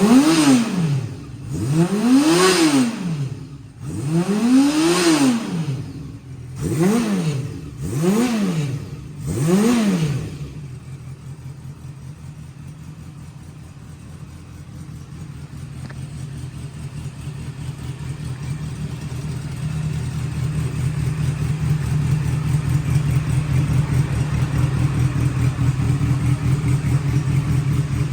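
Honda CB400SF VTEC Spec III's inline-four engine through a short aftermarket muffler, blipped about six times so the revs rise and fall quickly. About ten seconds in it settles to a steady idle.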